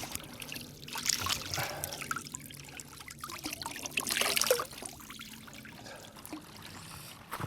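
Cold drinking water trickling and splashing, with louder surges about a second in and again around four seconds in.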